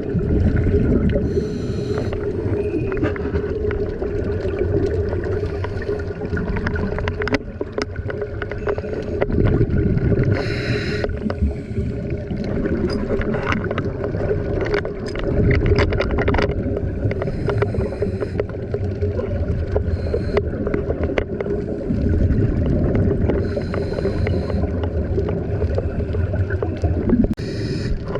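Scuba diver's regulator breathing heard underwater: a bubbly exhale about every six or seven seconds over a steady low drone.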